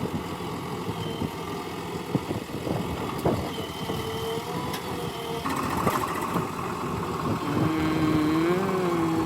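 JCB 3DX backhoe loader's diesel engine running under work, with a few sharp knocks early on. The engine picks up about halfway through, then its pitch rises and falls near the end.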